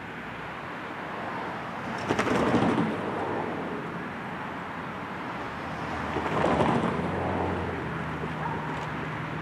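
Distant trains approaching on a rail line: a rumble that slowly builds, with two louder bursts of noise about two and six seconds in. A low, steady engine drone sets in over the last couple of seconds.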